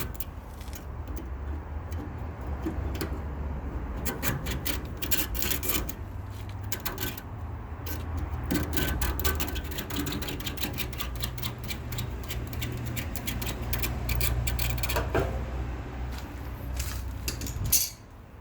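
Plastic fin comb being worked through aluminium air-conditioner condenser fins: a rapid, irregular run of clicks and scrapes as the teeth catch on the bent fins, over a low steady hum. It stops suddenly near the end.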